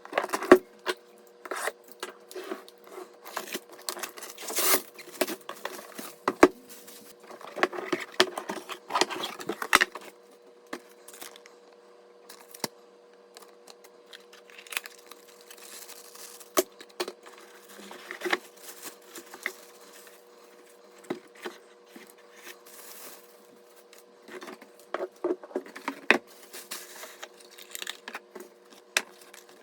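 Hands handling PC parts and their packaging: irregular rustling and tearing with scattered sharp clicks and knocks, busiest in the first third and again near the end, over a faint steady hum.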